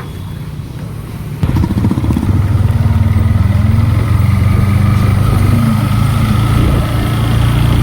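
Yamaha MT-15's single-cylinder engine comes in abruptly about a second and a half in, then runs loudly with a few brief rises in revs. It is being run to check for a ticking that the owner suspects comes from the rockers (valve clearance) but is not sure of.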